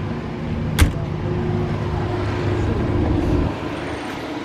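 A motor vehicle's engine running with a low rumble that grows louder and drops away about three and a half seconds in. A single sharp click comes about a second in.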